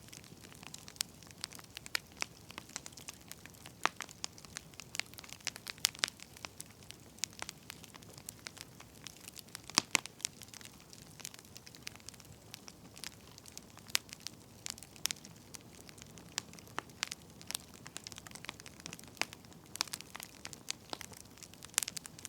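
Wood fire crackling: irregular sharp pops and snaps, some loud and some faint, over a low steady hiss.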